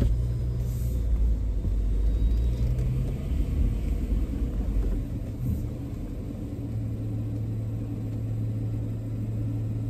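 Car engine and low road rumble heard from inside the cabin as the car creeps forward, settling to a quieter steady idle about halfway through.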